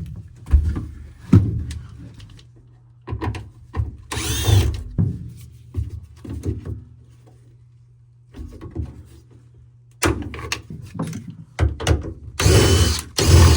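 Work sounds from taking out a car's headliner and interior trim: irregular knocks and clunks, with two short, denser whirring bursts, one about four seconds in and one near the end.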